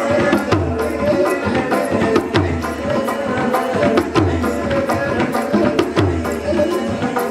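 Live music with hand drums: quick percussion strikes over sustained pitched instruments, with a deep drum note about every two seconds.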